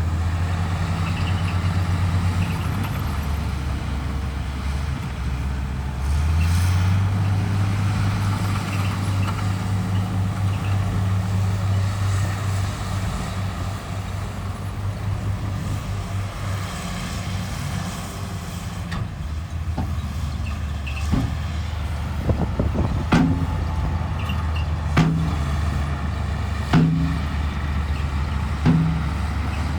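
Heavy diesel engine of a bulldozer working, its pitch and load rising about six seconds in. In the second half there is a series of sharp metallic clanks about every two seconds.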